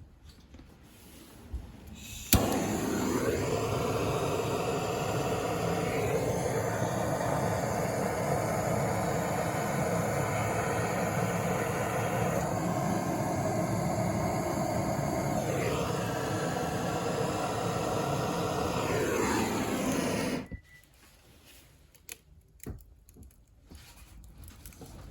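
A small motor switches on with a click and runs steadily for about eighteen seconds, its pitch shifting a few times, then stops abruptly.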